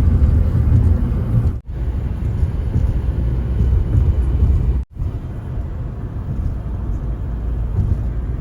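Road noise inside a moving car: a steady low rumble of tyres and engine. It cuts off briefly twice, about one and a half seconds in and again near five seconds.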